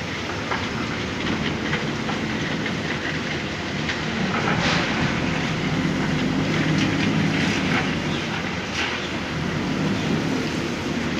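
Backhoe loader's diesel engine running steadily, rising somewhat in the middle, with scattered metallic clanks from the working machine.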